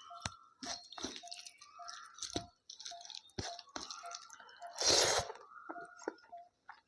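A person chewing rice, chicken and salad close to the microphone: wet chewing with sharp smacks and clicks, and one louder, noisy crunch about five seconds in.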